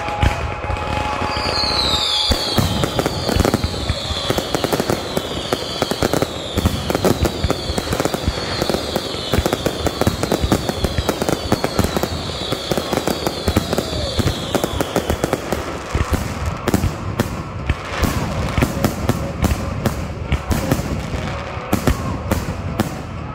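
Fireworks display close up: a continuous crackle of bangs and pops from bursting shells and fountains. A run of high, falling whistles repeats for most of the first two-thirds, and louder, more separate bangs come in the last third.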